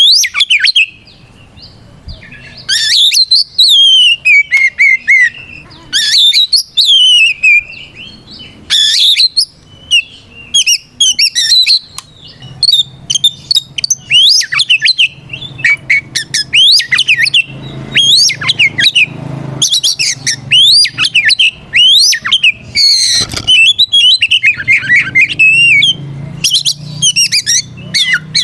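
Oriental magpie-robin (kacer) singing loudly in a string of quick, varied whistled phrases that rise and fall, broken by short pauses. Its full, open 'ngeplong' song is used to provoke other males to answer. A faint low hum sits underneath in the second half.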